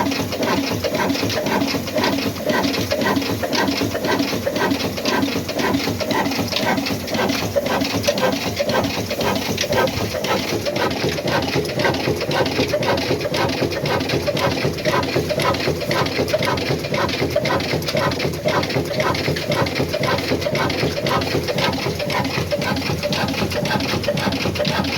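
Old black Ruston diesel engine running with a fast, steady, even mechanical clatter.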